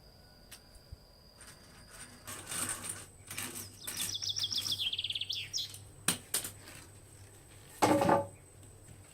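Rainforest ambience: a steady high insect buzz fades out, then a bird gives a rapid descending trill lasting about two seconds. A few sharp clicks follow, and a short, louder thump near the end is the loudest sound.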